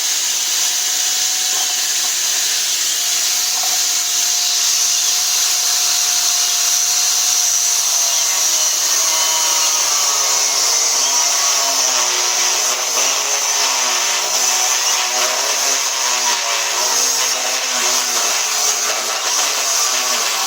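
A power tool's motor running continuously. Its pitch drops about a third of the way through and then wavers up and down, as if the tool is being pushed into work.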